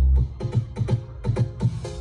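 Electronic dance remix played very loud through a large carnival sound system. The heavy bass drops out shortly after the start, leaving drum hits and a rising noise sweep, and comes back in at the end.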